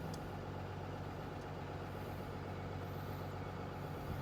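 A diesel engine idling steadily, a low even drone, with a faint click or two of tools being handled.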